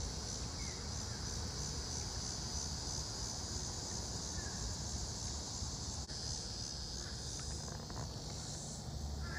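A steady, high insect chorus of crickets or similar insects, droning without a break.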